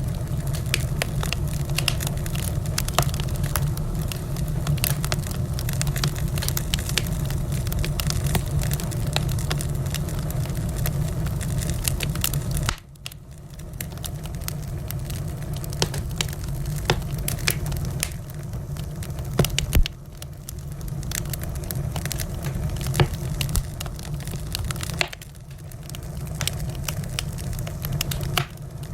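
Wood fire in a fireplace crackling, with dense quick pops over a low rumble of the flames. Twice the sound drops away suddenly and builds back up, and one louder pop comes about two-thirds of the way in.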